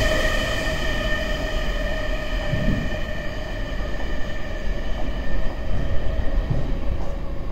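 Tobu 500 series Revaty limited express train running away from the listener after passing through, its ringing whine of several high tones and its rumble fading steadily as it goes. A few low thumps come through, about two and a half seconds in and at the end.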